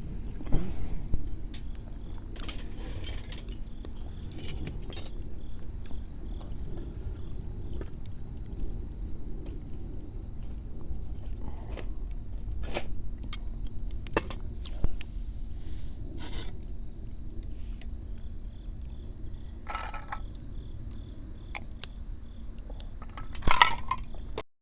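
Crickets trilling steadily on one high pitch, with scattered light clicks and knocks over it and a louder cluster of them near the end.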